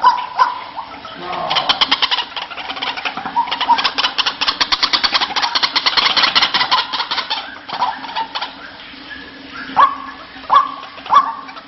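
White-breasted waterhen (ruak-ruak) calling: a long fast run of short, harsh notes for several seconds, then a few separate short calls near the end. It is the lure call used to draw the bird in.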